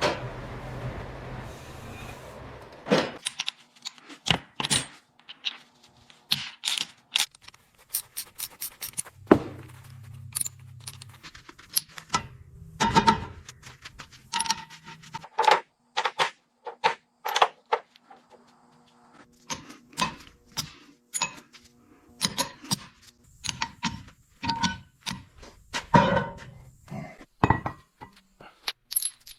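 Irregular metallic clinks, knocks and scrapes of hand tools and metal parts being handled, some strikes ringing briefly, with a short quiet stretch about two-thirds of the way through.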